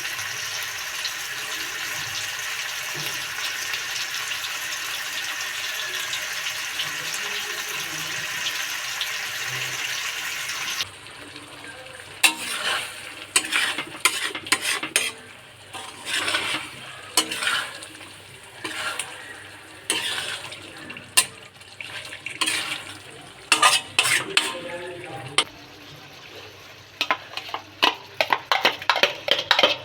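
Food sizzling steadily as it fries in a pan, cutting off after about eleven seconds. Then a metal spatula scrapes and clatters against the pan in separate stirring strokes, ending in a run of quick taps.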